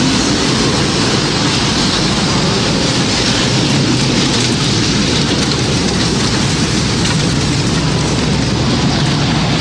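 Tornado storm sound effect: steady, dense noise of strong wind and heavy rain, unchanging throughout with no siren tone.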